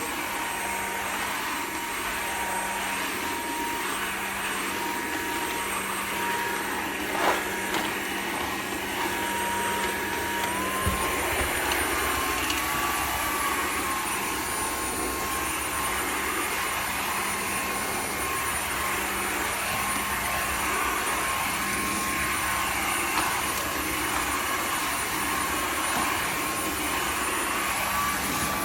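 Dreame H12 Pro wet-dry vacuum mop running across a muddy floor, its motor whining steadily. About ten seconds in the whine steps up in pitch and the sound grows a little fuller, as the dirt auto-detect raises its power on the dirtier patch. A brief knock sounds about seven seconds in.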